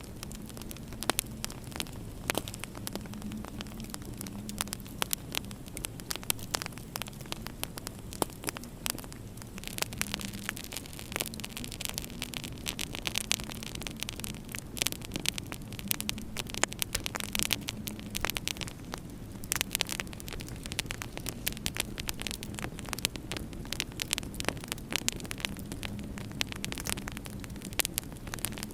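Wood fire in a fireplace crackling, with many irregular sharp pops and snaps over a steady low hum.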